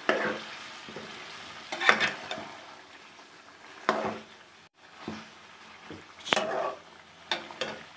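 Chicken pieces frying in ghee and tomato masala in a karahi, stirred with a spoon. A low, steady sizzle runs under the scrape and clatter of the spoon against the pan about every two seconds.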